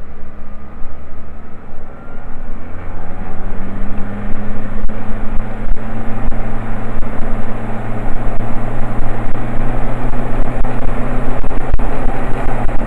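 Diamond DA40D's diesel aero engine run up to full power for a pre-takeoff check, rising in pitch and loudness about two seconds in, then holding a steady full-power drone with the propeller turning.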